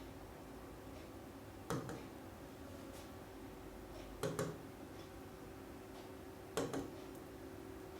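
A few faint clicks or taps, three short ones, the second and third each doubled, over a low steady hum of room tone.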